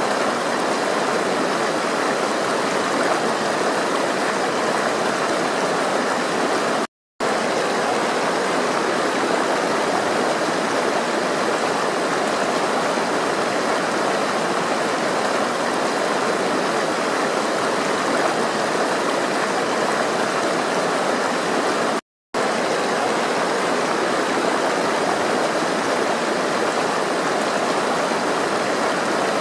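Flowing water running steadily, an even rushing sound, cut to silence twice for a split second, about seven seconds in and again about twenty-two seconds in.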